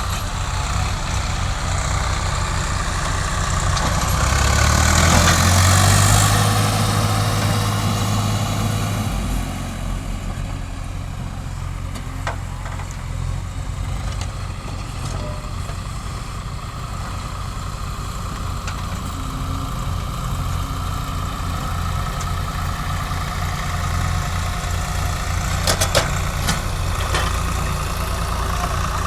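Diesel engine of heavy earthmoving machinery running, louder for several seconds about four seconds in, then steady; a few sharp clicks near the end.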